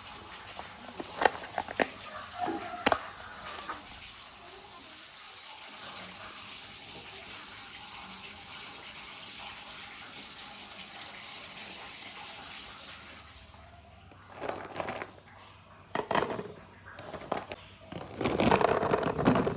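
Kitchen tap running into a sink, with a few sharp clicks in the first few seconds. The water stops about two-thirds of the way through, followed by irregular clattering and knocking, loudest near the end.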